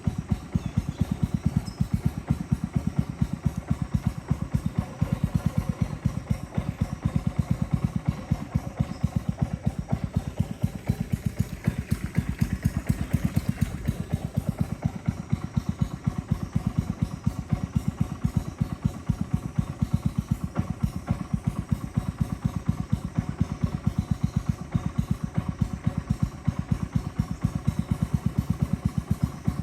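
A boat's motor running steadily, a fast, even low thudding.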